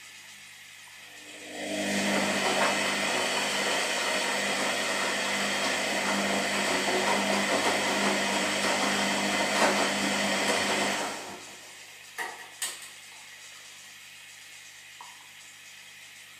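Washing machine running its wash cycle: about a second and a half in, the drum motor starts turning with a loud, even whir and a steady hum, runs for about nine seconds, then winds down. Two sharp clicks follow, then only a faint low hum until the end.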